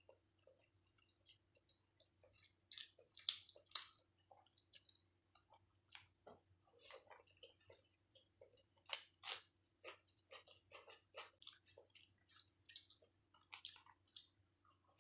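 A person chewing chicken biryani close to the microphone: wet, irregular mouth clicks and smacks, in clusters, the loudest about nine seconds in.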